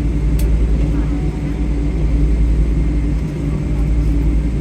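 Steady low rumble and hum inside the cabin of a Boeing 777-300 on the ground after landing, with a single faint click about half a second in.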